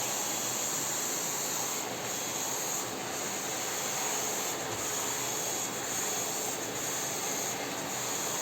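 Small vacuum cleaner running steadily: a hissing whir with a high-pitched whine on top.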